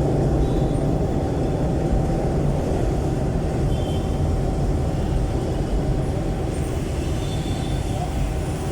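Jeepney's Isuzu 4BC1 four-cylinder diesel engine running steadily through a very loud aftermarket "ear-breaker" muffler, a dense low exhaust rumble while the vehicle is under way.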